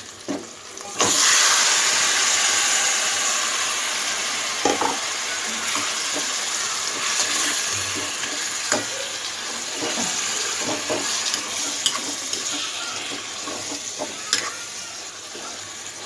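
Raw chicken pieces hitting hot oil with fried onions and green chillies: a loud sizzle breaks out about a second in and slowly dies down. Scattered knocks and scrapes of a spoon stirring in the pan run through it.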